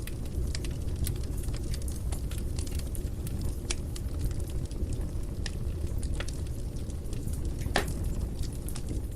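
Fire burning in a fireplace: a steady low rumble with scattered sharp crackles, and one louder pop near the end.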